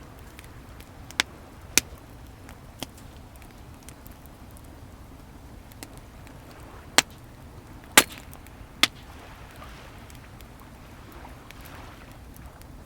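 Wood burning in a bonfire, with sharp crackling pops: a few about one to three seconds in, and the loudest three between seven and nine seconds in. Under them, a steady wash of waves.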